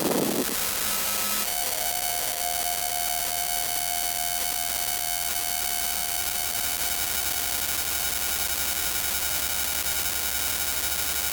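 Steady cabin noise of a tour helicopter in flight, heard with a constant electronic whine and low hum. About a second and a half in, the sound changes to a steadier, more tone-laden hum.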